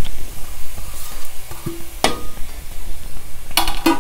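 Masala paste and fried bitter gourd sizzling in oil in a cast-iron skillet, a steady hiss, with a sharp tap about two seconds in and a short rattle of knocks near the end.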